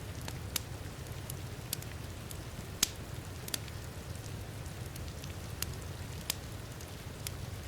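Wood fire crackling, with irregular sharp pops, the loudest nearly three seconds in, over a steady, low-pitched rush of heavy rain.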